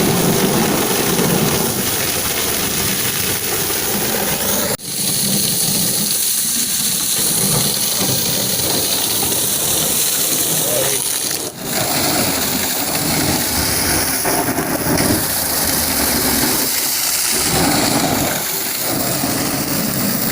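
Water jet from a car-wash pressure washer spraying a car: a steady, loud rush of water, cut off for an instant twice.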